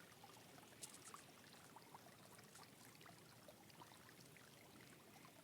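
Faint, steady babbling of a small stream flowing close by, with many tiny trickling ticks.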